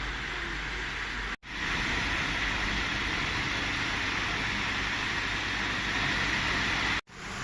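MST Micro Master egg washing machine running: a steady hissing noise over a low rumble. It cuts out abruptly twice, about a second and a half in and near the end.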